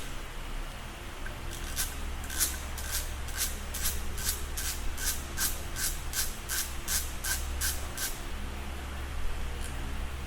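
A hand tool working on a motorcycle engine, clicking at an even pace of two to three clicks a second for about six seconds, then stopping, with some scraping and rubbing around it.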